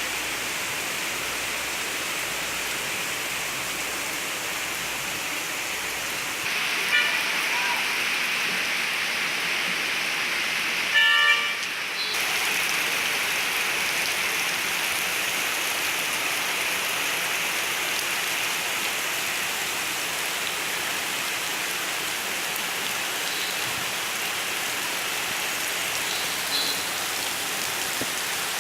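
Steady rain falling, an even hiss that steps up a little in loudness about six seconds in. A brief pitched tone sounds about eleven seconds in, the loudest moment.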